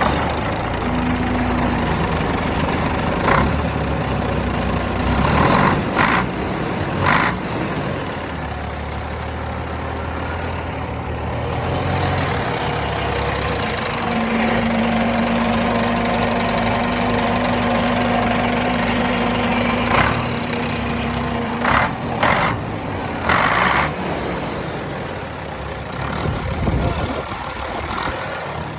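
DAF diesel engine running just after start-up, idling with its low note shifting now and then. Several short, loud knocks or clatters sound over it.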